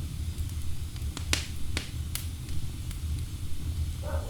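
Wood fire crackling: a steady low rumble of burning with scattered sharp pops and snaps, the loudest about a third of the way in.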